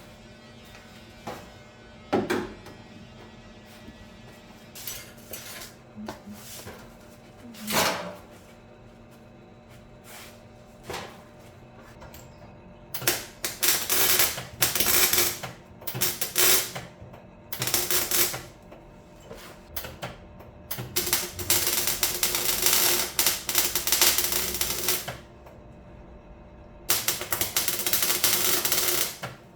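Welding on the car's rear wheel-arch sheet metal, a crackling arc in short welds. There are a few brief welds in the first eight seconds, then from about thirteen seconds in a run of longer welds, each lasting one to four seconds with short pauses between.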